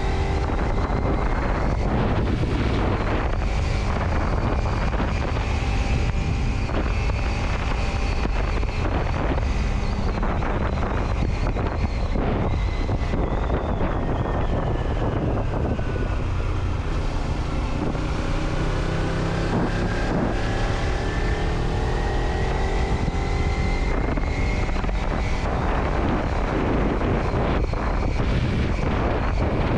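A vehicle driving on the road: a steady rumble of road and wind noise, with a faint engine whine whose pitch falls to a low about two-thirds of the way through and then climbs again as the speed changes.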